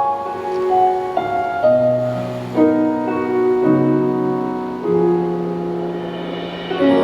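Piano playing the slow closing chords of a ballad's instrumental outro: held chords that change about once a second, with no voice.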